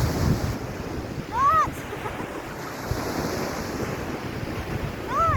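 Surf washing on the beach with wind buffeting the microphone. Twice a short call rises and falls in pitch, about a second and a half in and again near the end.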